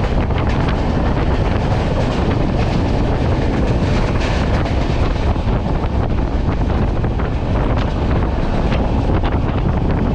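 Wind buffeting the microphone at the open door of a fast-running passenger train, over the steady rumble of its wheels on the track with scattered short clicks.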